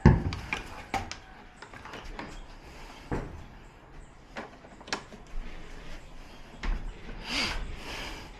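A series of sharp clicks and knocks, the loudest right at the start, with a short rustling scrape near the end: hands handling parts inside an opened TV as a ribbon cable is plugged back into its connector.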